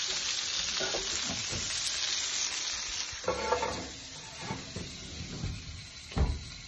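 Breaded chicken and asparagus sizzling in avocado oil and butter in a hot cast iron pan as the pan is lifted off the stove and put into the oven, the sizzle fading. A few brief knocks, and a low thump about six seconds in.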